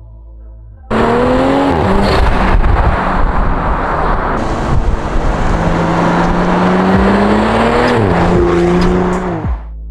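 BMW X3 M40i's turbocharged inline-six accelerating hard, starting suddenly about a second in. The pitch climbs, drops at a gear change, then holds steady, and the sound cuts off abruptly near the end.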